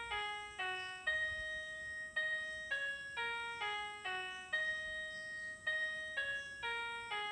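Background music: a simple, bright keyboard melody of plucked, chiming notes repeating in an even rhythm, about two to three notes a second.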